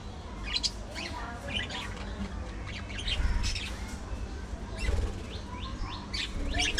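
A flock of budgerigars chirping and chattering in short, scattered bursts, over a steady low rumble.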